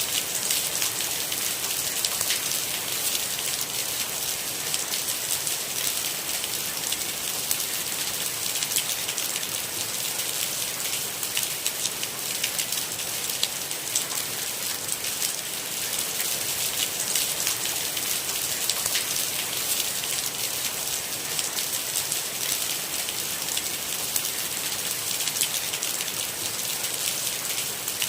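Steady rain: an even hiss with a dense patter of sharp individual drop hits.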